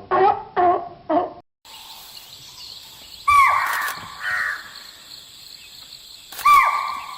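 Animal calls: a quick run of short calls, about three a second, then after a cut two harsh calls falling in pitch, a few seconds apart, over steady outdoor background noise.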